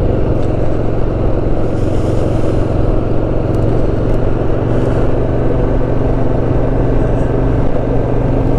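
Motorcycle engine running at a steady cruise, with road and wind noise, picked up by a mic on the rider's own bike or helmet.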